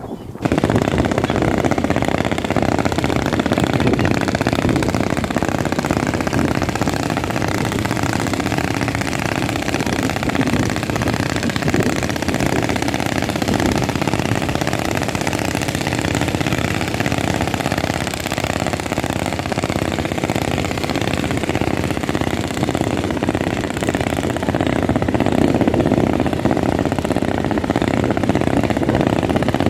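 Boat engine running steadily at a constant pace, loud and close, cutting in abruptly about half a second in.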